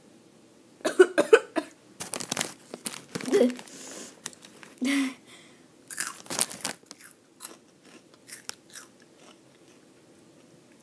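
Flamin' Hot Cheetos crunched and chewed close to the microphone in irregular crackly bursts that start about a second in and thin out to a few scattered crunches near the end. The snack bag rustles about six seconds in.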